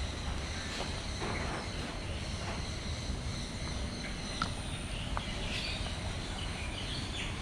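Aviary ambience: a steady high-pitched insect-like drone with scattered short bird chirps and calls over it.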